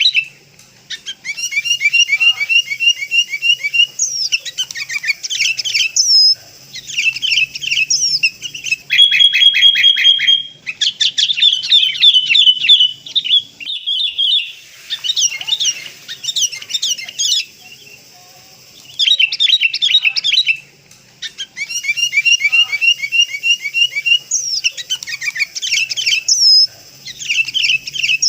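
Sooty-headed bulbul (kutilang) calling: loud bursts of rapid chattering chirps, each lasting a second or two, with short pauses between them, and now and then a rising whistled note.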